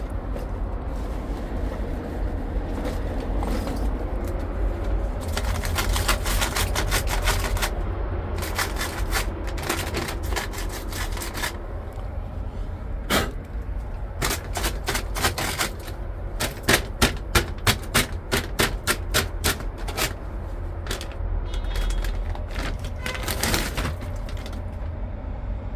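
Runs of sharp metallic clicks and knocks from hand and tool work on a rooftop unit's sheet-metal panels, at times in quick rattling runs and near the middle as louder strokes about three a second, over a steady low rumble.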